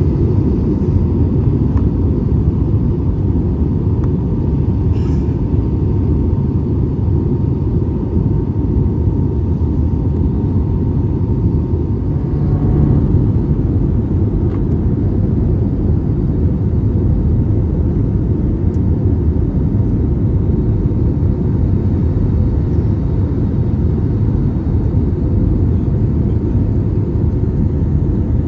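Steady cabin rumble of an Airbus A320neo in flight, its CFM LEAP-1A engines and the airflow heard from a window seat inside the cabin, with a faint steady whine over a deep, even roar.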